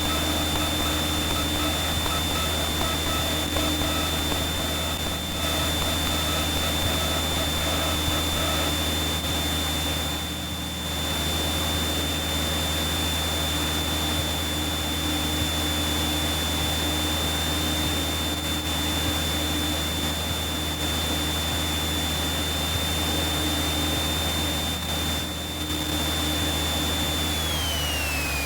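Light aircraft's engine and propeller droning steadily in the cockpit, with a constant high whine that slides down in pitch near the end.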